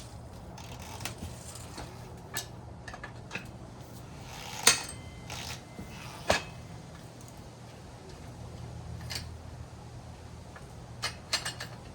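Scattered metallic clicks and clanks of tools working against a motorcycle wheel while the tire bead is being broken loose from the rim, the loudest about halfway through and a quick pair near the end.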